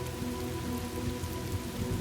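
Steady rain falling, with a low thunder rumble beneath it and soft held musical tones running through.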